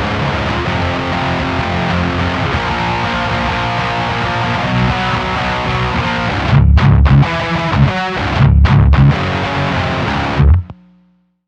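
Distorted electric guitar riff through a Diezel VH4 tube amp's high-gain channel, with a JJ ECC83S Gold preamp tube and Mullard EL34 power tubes. Heavy, chugging low-end playing that turns into short stop-start hits in the second half, then cuts off sharply near the end.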